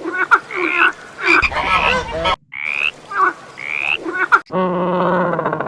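Repeated short animal calls, several sweeping quickly upward in pitch, cut together from separate clips; about four and a half seconds in, a different, lower pulsing call takes over.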